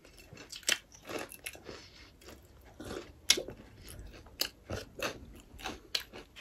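Chewing and mouth clicks of people eating, with irregular sharp smacks a few times a second.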